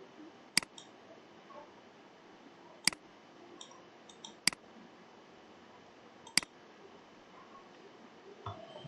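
Computer mouse clicking: four sharp single clicks a second or two apart, with a few fainter ticks between the second and third.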